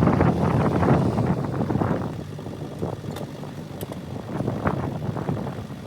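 Lovol tractor at work with its snowblower, a loud rough rushing noise that eases off a little after about two seconds.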